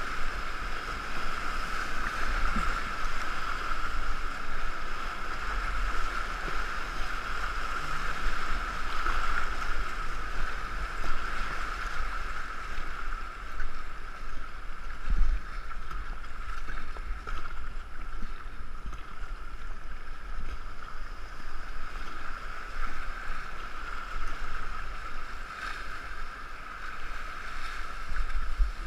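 Steady rush of river water around a racing canoe, muffled through a GoPro's waterproof housing, with low buffeting rumble on the microphone.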